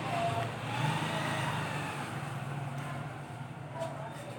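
A road vehicle passing, its engine noise swelling about a second in and fading over a steady low hum.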